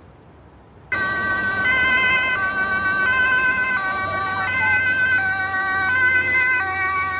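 Emergency vehicle's two-tone siren, alternating between two pitches about every two-thirds of a second, cutting in suddenly about a second in.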